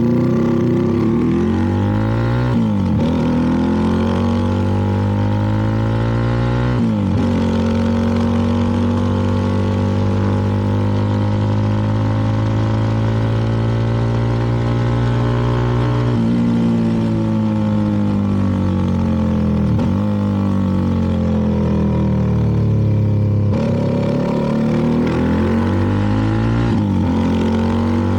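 CFMoto 300NK's single-cylinder engine running under way, its pitch rising and dropping sharply several times, with a long steady stretch in the middle.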